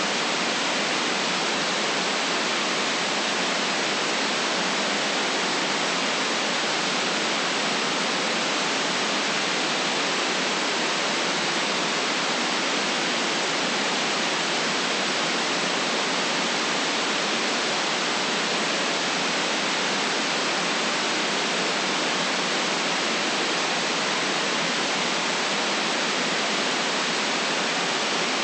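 Steady white noise, a constant even hiss with nothing in the low bass and no changes or events.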